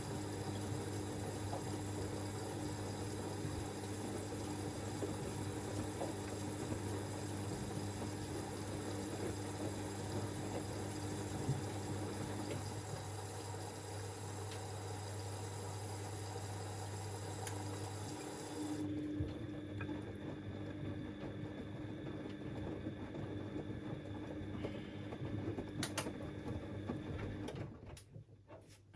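Front-loading washing machine running mid-cycle: a steady machine hum with some water noise that shifts in steps twice, then stops about a second before the end.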